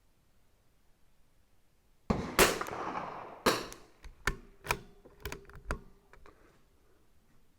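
CZ 457 bolt-action .22 LR rifle firing a shot about two seconds in, followed by a run of sharper, quieter clicks over the next few seconds.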